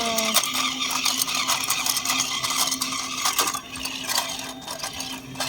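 Battery-powered walking toy animals' small motors and plastic gears whirring with a dense, steady clicking, a little quieter from about halfway through.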